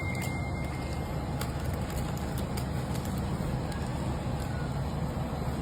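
A steady low rumble with a constant hum, and a few faint clicks over it.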